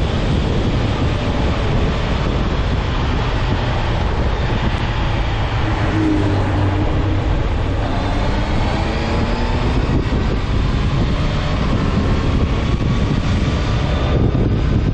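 Honda CB650F inline-four engine running under way, its note rising and falling as the bike is ridden, buried in heavy wind rush on the microphone.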